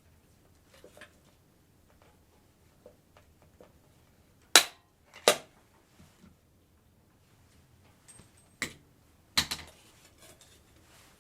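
Four sharp, loud snaps in two pairs, each pair less than a second apart, with light handling knocks between: tool strikes while fixing the wire mesh of a range-hood exhaust vent cover.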